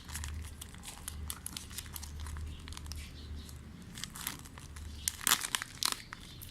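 Plastic seasoning sachets from an instant noodle cup being crinkled and torn open: irregular crackling rustles, with a louder burst of crinkles about five seconds in.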